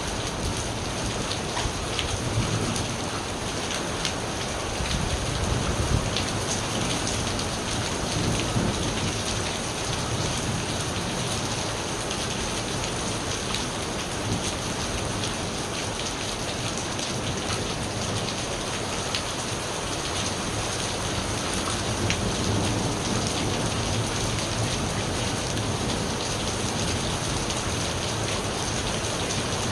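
Steady rain falling, with low thunder rumbling and swelling up several times.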